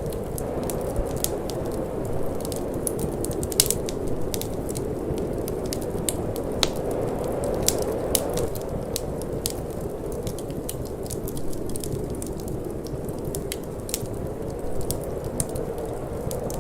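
Wood fire crackling with frequent sharp pops, one stronger pop about three and a half seconds in, over a steady rushing wind.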